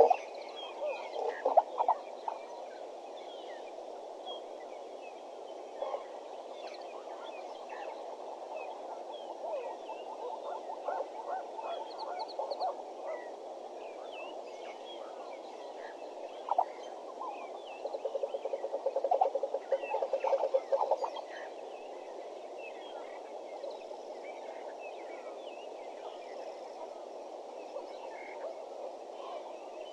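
Waterhole dawn chorus. A bird, plausibly the hornbill, gives rapid series of clucking calls, once softer around the middle and once louder a few seconds later, over a steady background chorus and scattered short chirps of small birds.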